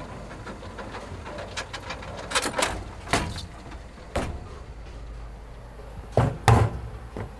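A series of irregular knocks and bangs over a low hum, about seven in all, with the two loudest close together near the end.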